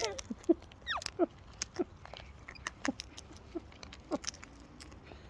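Parrots, cockatoos and lorikeets, crowding close to the phone: many sharp clicks and taps of claws and beaks, with about six short chirps that drop in pitch scattered through.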